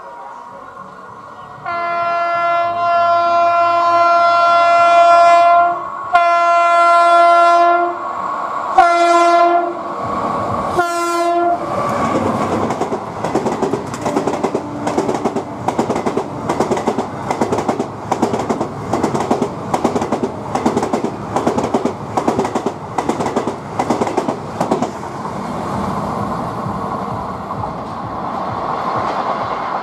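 Indian Railways WAP-5 electric locomotive sounding its multi-tone air horn four times, the first blast long and the rest shorter, as it approaches at speed. Its express train then rushes past with a rapid, rhythmic clickety-clack of wheels over rail joints, settling into a steadier rumble near the end.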